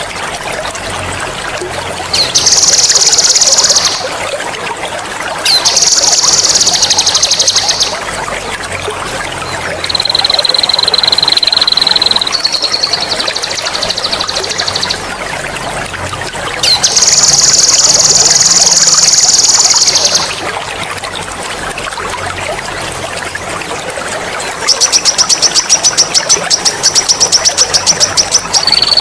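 Songbird singing loud, sharp rolling trills ('ngerol') in about six separate phrases of two to three seconds each, some buzzing and one toward the end clearly pulsed, over steady trickling water.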